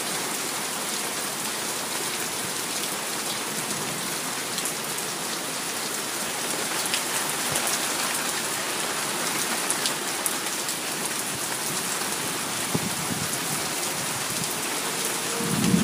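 Heavy thunderstorm rain falling steadily, a constant hiss with the patter of individual drops hitting surfaces.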